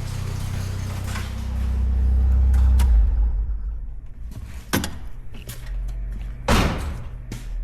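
Nissan 240SX engine running, swelling a little in level, then switched off about three seconds in. A few sharp knocks follow, two of them louder, like a door or panel being shut.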